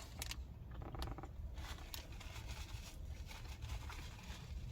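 Faint scraping and clicking noises of someone eating snacks, over a steady low hum.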